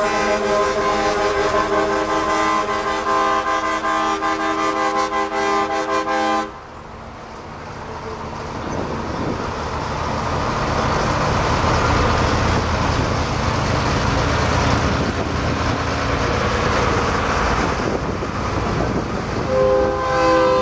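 Multi-tone truck air horn (train-style) blaring a loud, steady chord that cuts off sharply a few seconds in. A rushing noise with a low rumble then builds, and the horn chord sounds again near the end.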